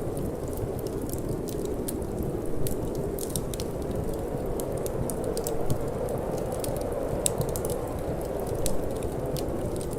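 Wood fire in a fireplace crackling, with frequent irregular sharp pops, over a steady low rush of wind.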